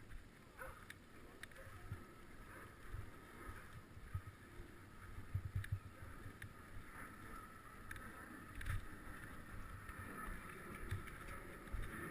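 Wind buffeting the microphone in irregular low gusts during a bicycle ride, over a faint steady rolling noise, with a few light clicks.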